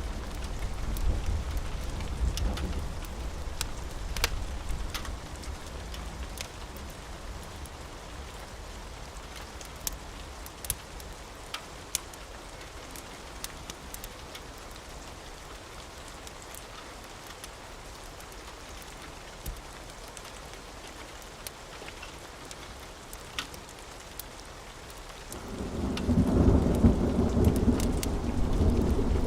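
Steady rain with scattered sharp ticks, as a low thunder rumble dies away over the first few seconds; about 25 seconds in, a new, louder thunder rumble rolls in.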